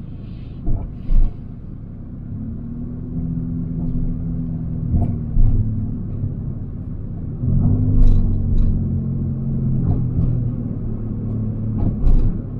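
Car engine and road rumble heard inside the cabin of a Nissan, the engine's steady hum strengthening about two seconds in and again, louder, about seven and a half seconds in as the car pulls along. A few light knocks and clicks sound over it.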